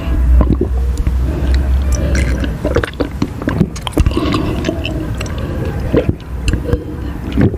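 Close-miked chewing and biting of cheese ribs: wet, squishy mouth sounds broken by many irregular sharp clicks.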